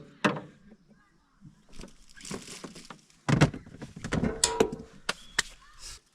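Irregular knocks, clicks and clatter, with a louder knock about three seconds in followed by a busy stretch of sharp clicks.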